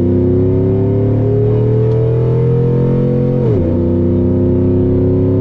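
Exhaust of a 2011 GMC Sierra's 5.3-litre V8, fitted with long-tube headers, 3-inch piping and a MagnaFlow bullet muffler, pulling hard under acceleration with the pitch climbing steadily. About three and a half seconds in the pitch drops sharply at a quick upshift, and the engine carries on pulling in the next gear.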